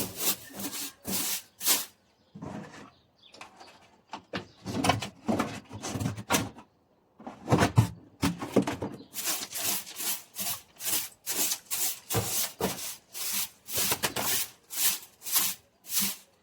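Repeated scraping strokes, about two a second with a few short pauses, as chicken droppings are cleared from the coop floor.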